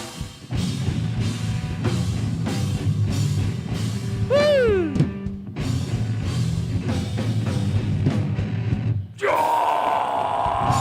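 Live heavy metal band playing, with drum kit and distorted guitars, and a single falling pitched squeal about halfway through. A little past nine seconds the sound drops out briefly and gives way to a steady noisy ringing.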